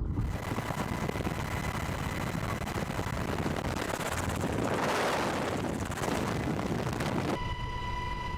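Strong wind rushing over the microphone, a steady roar that cuts off abruptly about seven seconds in, giving way to a steady hum with a high whine.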